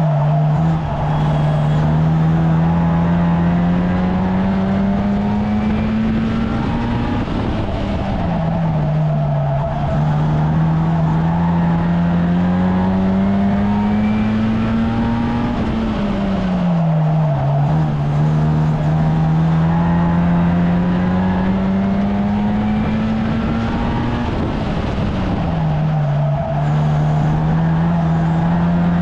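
1300cc stockcar engine running hard in a race, its pitch climbing steadily for several seconds and then dropping sharply. The drops come just after the start, about 9 s and 17 s in, and near the end, the rhythm of lifting for each bend and accelerating down each straight of a short oval.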